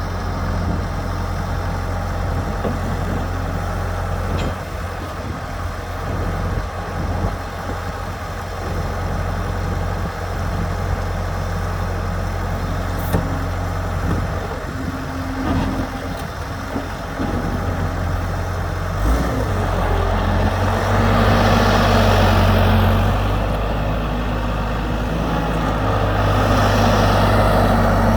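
Case 95XT skid steer loader's diesel engine idling steadily. About twenty seconds in it grows louder with added hiss, in two swells.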